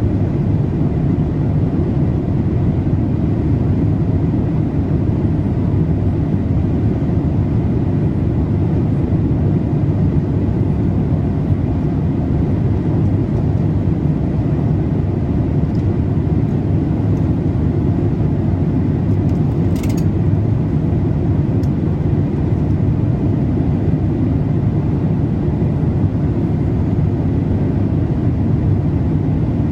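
Steady low rush of a Boeing 787-8's cabin in flight, made by engine and airflow noise. One brief faint click comes about two-thirds of the way through.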